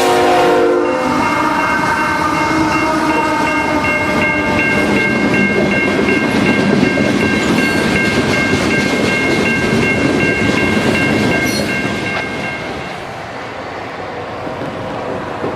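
A freight train passing close by. Its horn chord cuts off about a second in, then the railcars rumble and clatter past while a bell rings rapidly and steadily. The bell stops and the noise eases near the end.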